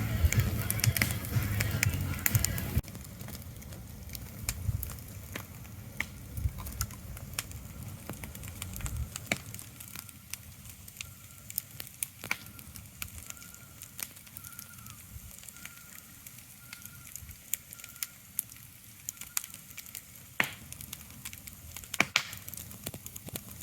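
Irregular sharp crackles and pops over a quiet hiss, with a louder low rumble in the first few seconds that dies away, and a faint repeated high tone in the middle.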